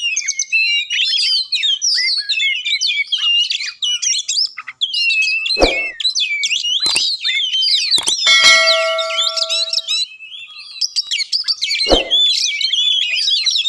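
Oriental magpie-robin (kacer) singing a rapid, varied whistled song without pause. About 8 seconds in, a few steady held notes come in briefly. Four short thumps fall through the middle of the song.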